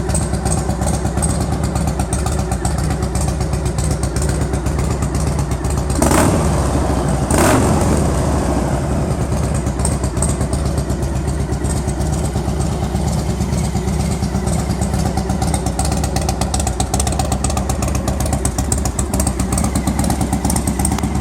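Harley-Davidson Night Train's 95 cubic inch fuel-injected V-twin idling steadily, with two short revs about six and seven and a half seconds in.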